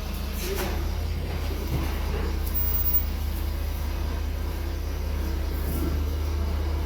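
Steady low engine rumble, like a vehicle idling, with a few faint knocks.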